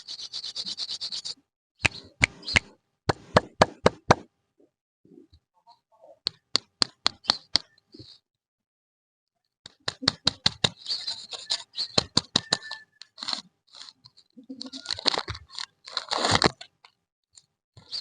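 Plastic candy wrappers being handled and torn open close to the microphone: crisp crinkling and rustling broken by sharp clicks and taps. It comes in bursts, with two short pauses.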